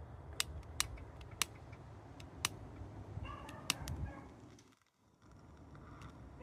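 Faint outdoor ambience: a low steady rumble with scattered sharp clicks and ticks, and a brief faint pitched call about three and a half seconds in. The sound fades out about five seconds in.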